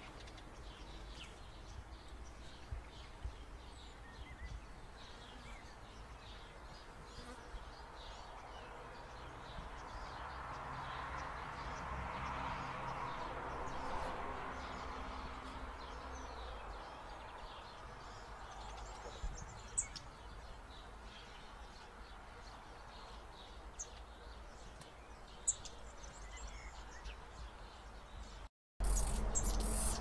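Faint outdoor ambience with scattered soft bird chirps and a few thin, high calls, under a broad hiss that swells and fades in the middle. Near the end it cuts abruptly to a much louder, bass-heavy sound.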